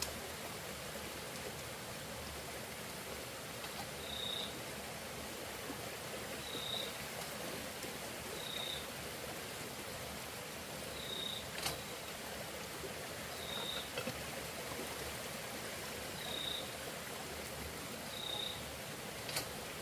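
Outdoor ambience: a steady hiss, with a short, slightly falling high note from a calling animal repeated about every two seconds, and two sharp clicks in the second half.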